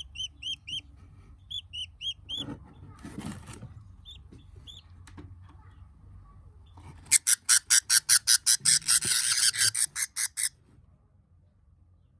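Budgies calling: a string of short repeated chirps, a brief rustle, then a loud, fast run of harsh calls, about three or four a second, that lasts about three and a half seconds and stops abruptly.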